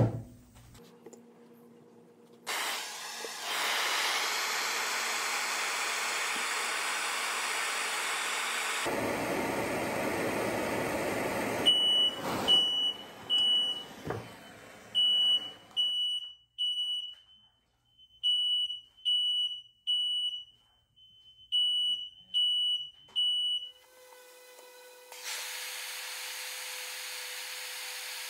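A torch flame hissing steadily, then a smoke alarm beeping, a sharp high-pitched beep repeated in short runs of three or four with pauses between them, set off by the smoke from hot-bluing small steel screws. The steady torch hiss starts again near the end.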